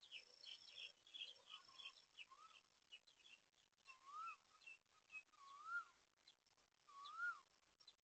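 Faint birdsong: a bird repeats a single whistled note that rises and then falls, about every one and a half seconds, from about four seconds in. Earlier, clusters of short high chirps mix with a thin, high, steady insect trill.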